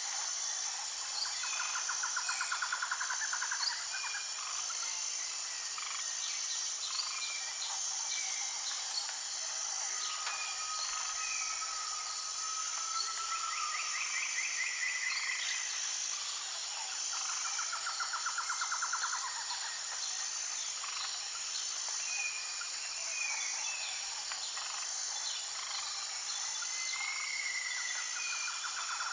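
Tropical rainforest birds calling: several fast rattling trills, a long even whistle and a short rising whistle, over a steady high-pitched insect drone with a regular pulse.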